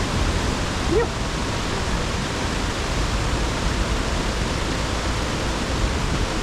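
Steady rush of a waterfall and mountain stream pouring through a rock canyon, with a brief spoken 'yep' about a second in.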